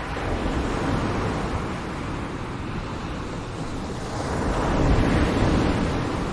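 Ocean surf: waves washing in as a steady hiss and rumble, swelling at the start and again, louder, about five seconds in before easing off.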